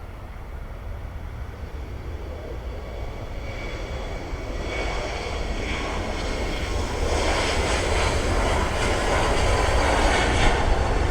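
Jet airliner's engines at takeoff power, a rushing roar that grows steadily louder over a constant deep rumble as the plane comes down the runway.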